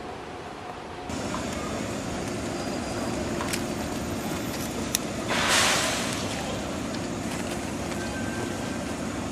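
Bonnet-nosed express electric train rolling slowly into a station platform, giving a steady rumble and hum. About five seconds in comes a short, loud hiss.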